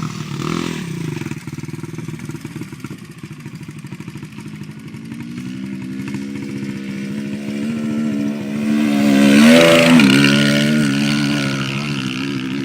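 Motocross bike engine revving, growing louder from about halfway through and rising in pitch to a loud peak near the ten-second mark as the throttle is opened for the jump, then dropping back.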